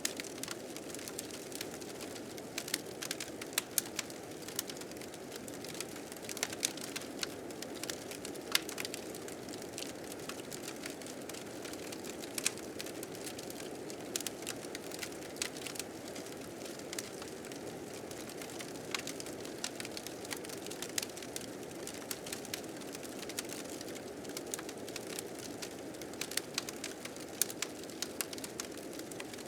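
Wood fire crackling with frequent sharp pops and snaps, several a second at irregular spacing, over a steady low rush of blizzard wind.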